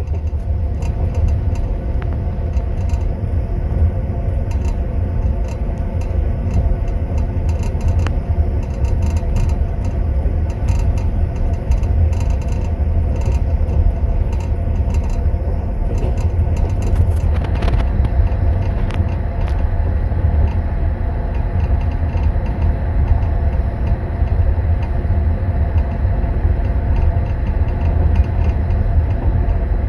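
Passenger train running, heard from inside a compartment car: a steady low rumble of wheels on the rails, with light metallic clinking of teaspoons in tea glasses in their holders, busiest in the first half.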